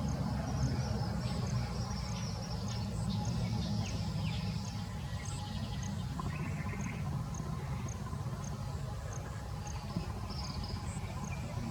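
An insect, cricket-like, chirping high and evenly, about three chirps a second, over a steady low rumble, with faint scattered bird chirps in between.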